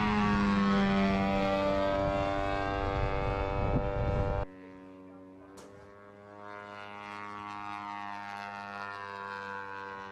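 A propeller-driven aircraft engine droning at a steady pitch. It drops sharply in loudness about four and a half seconds in and carries on quieter, with a single sharp click soon after.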